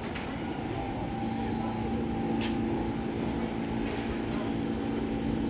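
Subway train running with a steady electric hum, a constant low tone over a rumble.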